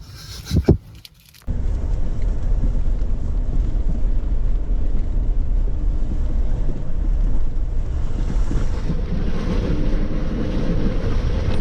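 Wind buffeting the microphone over a Jeep Wrangler driving off-road, a loud steady rumble that starts suddenly about a second and a half in. It follows a brief, loud knock about half a second in.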